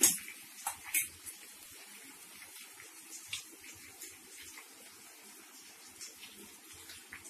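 Chicken pieces frying in a pot with a low, steady sizzle. A utensil knocks sharply at the very start and again about a second in, with a few lighter clinks after.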